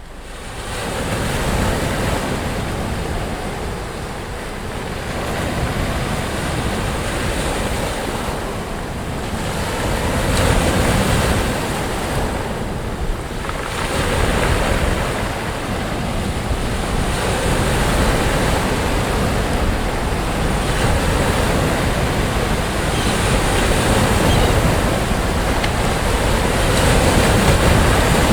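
Sea waves breaking and washing up a beach: a continuous rush of surf that swells and eases every few seconds.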